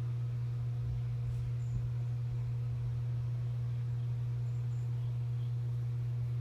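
A steady low hum throughout, with a fainter steady higher tone and a few faint, short high chirps now and then.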